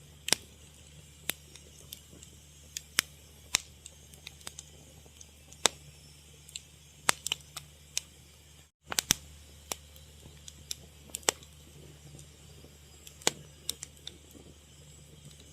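Wood fire crackling, with irregular sharp pops and snaps a few times a second over a steady low hum. The sound drops out for a split second about nine seconds in.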